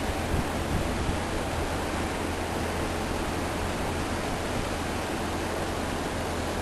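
Steady rushing noise over a low hum, unchanging throughout.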